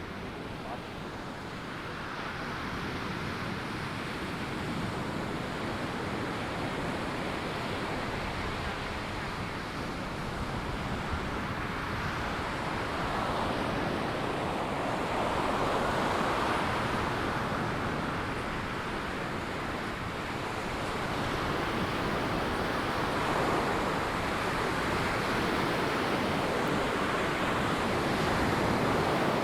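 Ocean surf breaking and washing up on a sandy beach, in slow rising and falling swells, with some wind on the microphone.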